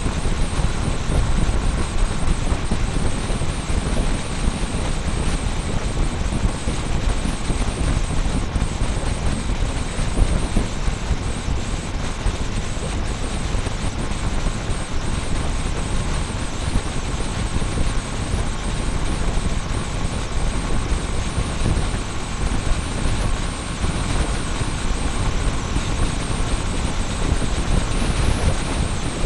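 Motorbike running on the road, heard through a small camera mounted on the bike: steady engine and road noise under heavy wind buffeting on the microphone.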